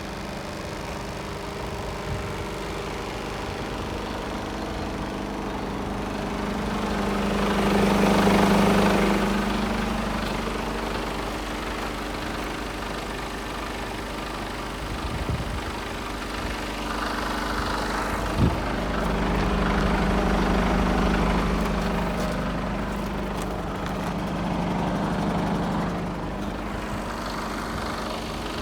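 Mercedes Actros 2545's 450 bhp Euro 6 diesel engine running at idle, the sound swelling louder and easing back a few times. A single sharp knock about eighteen seconds in.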